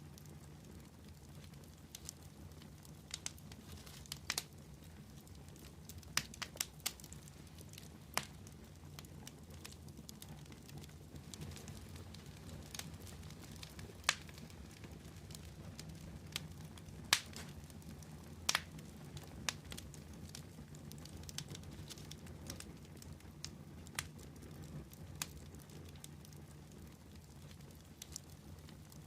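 Fire crackling, with irregular sharp pops, a few clearly louder than the rest, over a low steady rumble.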